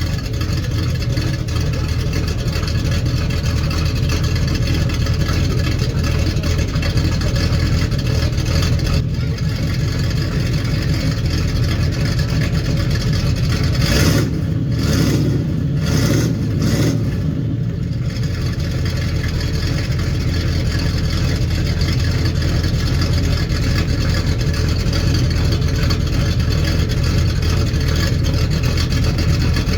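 Chevrolet Malibu SS's carbureted American V8 running at a steady idle, with a few short revs about halfway through.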